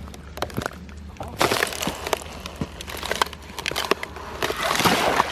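Thick ice cracking and crunching under repeated blows as someone tries to break it, not yet giving way. Sharp cracks come throughout, with two louder stretches of crunching, about a second and a half in and near the end.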